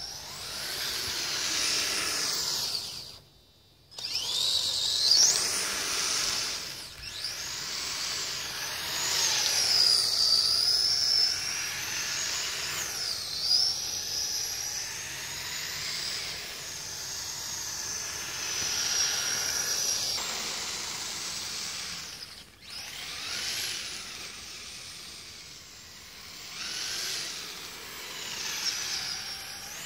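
Electric motors and gearboxes of a dual-motor radio-controlled tracked vehicle built from two Kyosho Blizzard chassis, whining as it drives, the pitch rising and falling with the throttle. The whine cuts out briefly twice, about three seconds in and again near the middle.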